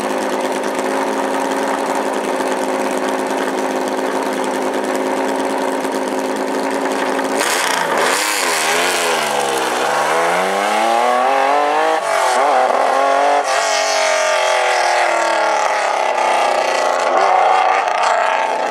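Lancia Stratos rally car's engine idling steadily, then about seven seconds in it is blipped twice and the car accelerates away, the pitch climbing and dropping back at each gear change.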